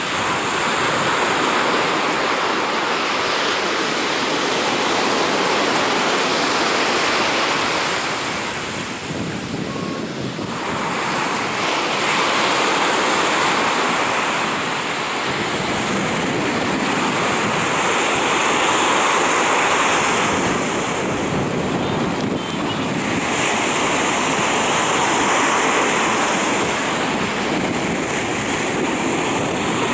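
Sea surf breaking and washing up the shore in a continuous rush, swelling and easing in slow surges every several seconds as the waves come in.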